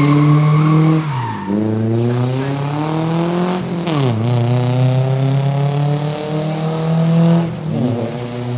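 Nissan 240SX four-cylinder engine through its modified exhaust, revving hard and climbing in pitch, dropping off sharply twice and winding up again each time, then falling away near the end.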